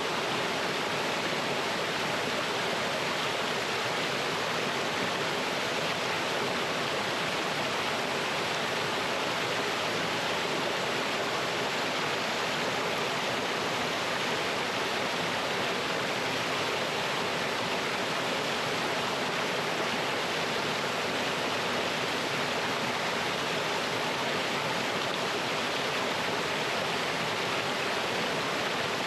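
Mountain stream water running over rocks, a small cascade making a steady, even rush.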